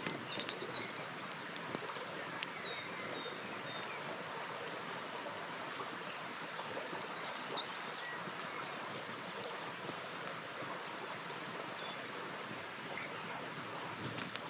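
River water rushing steadily, with a few sharp crackles and pops from a campfire and some faint high chirps.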